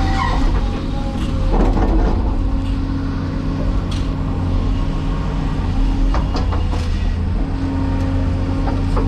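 Cat 336E excavator's diesel engine running steadily under hydraulic load, its hydraulic whine changing pitch about seven seconds in, with scattered knocks and scraping of material.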